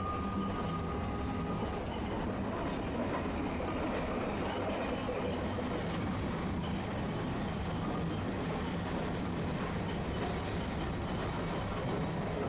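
Tosaden streetcar running along its line, heard from inside the car: a steady low motor hum under the rumble of wheels on the rails. A thin high whine fades out about two seconds in.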